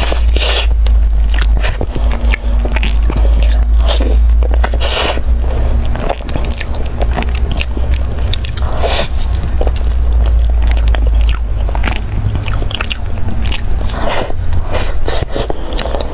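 Close-miked biting and chewing of a soft, cream-filled yellow pastry: wet mouth sounds with many small irregular clicks and smacks. A steady low hum runs underneath.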